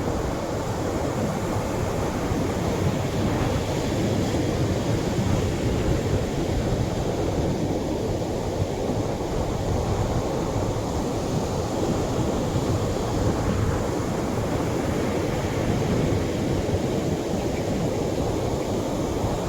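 Atlantic surf breaking on a beach: heavier waves wash in a steady rush, swelling and easing slightly, with no single sharp crash.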